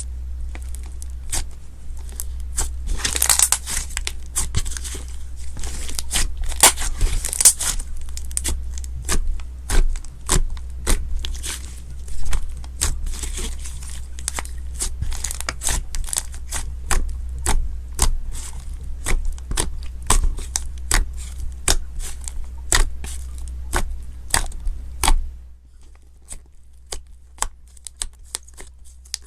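Slime being pressed and stretched by hand, with a dense run of sharp crackles and pops. About 25 seconds in it turns quieter, and the crackles thin out to a few scattered ones.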